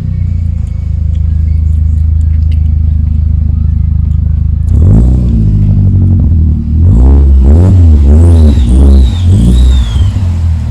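Audi TT Mk2's exhaust, a custom 3-inch decat downpipe and 3-inch stainless steel full system with a dual-exit back box: the engine idles steadily, then is revved in a series of quick blips from about halfway through. Faint high whistling glides come in near the end.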